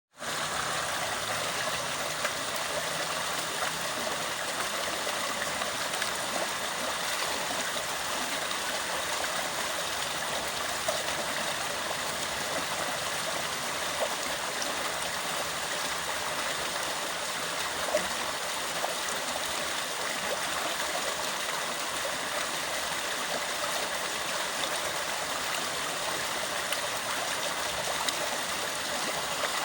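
Flowing water running steadily, with a few brief louder splashes.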